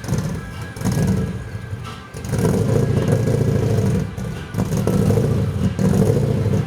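Toyota 1UZ-FE V8 engine revving in repeated surges, each held for a second or two and dropping back in between, as the car is driven.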